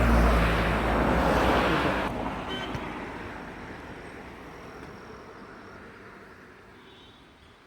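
A road vehicle passing close by, loudest at the start and fading away steadily over several seconds.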